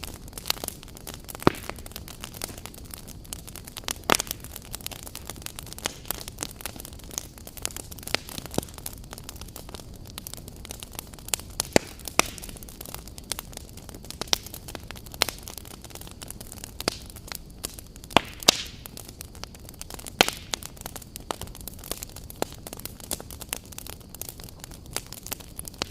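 Wood fire burning, crackling and popping: a steady hiss with irregular sharp snaps, a few of them loud.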